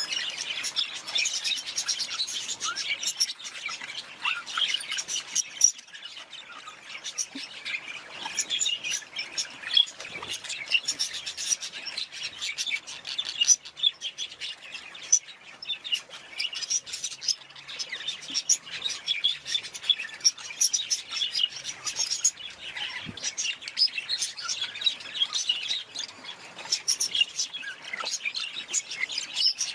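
Budgerigars chirping and chattering in a dense, unbroken stream of short high chirps.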